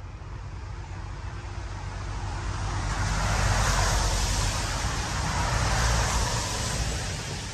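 A road vehicle driving past: its tyre and engine noise swells to a peak a few seconds in, then fades, over a low wind rumble on the microphone.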